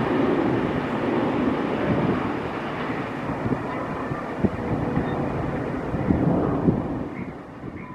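Diesel-and-CNG-powered DEMU train running along the track as it moves away, a steady rumble of wheels on rail with scattered clicks, fading near the end.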